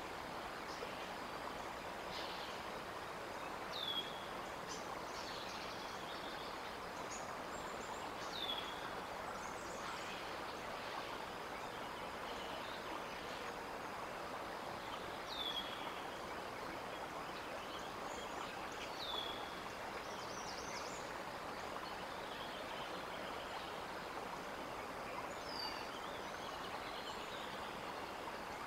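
A songbird repeats a short downslurred whistle every four to seven seconds, with faint high chips from other birds, over a steady rushing background hiss.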